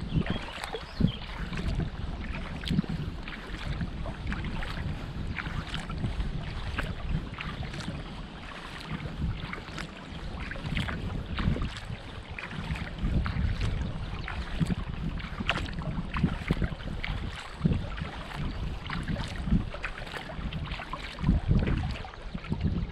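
Kayak paddling: water splashing and dripping with each paddle stroke, with many small ticks and splashes, over a low wind rumble on the microphone.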